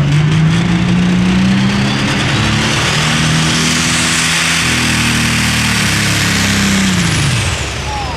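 Modified pulling tractor's engine running hard under load, its pitch climbing over the first two seconds. A high whine rises, holds, then falls away with the engine near the end, a sound typical of a turbocharger issue.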